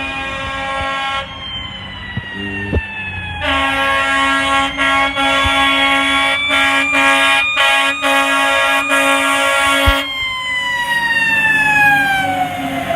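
Fire engine's Federal Q mechanical siren wailing and winding down in long falling glides, mixed with its air horns. The air horn sounds steadily at the start, then in a run of short, quickly repeated blasts from about three and a half seconds to ten seconds over the siren, which winds down again near the end.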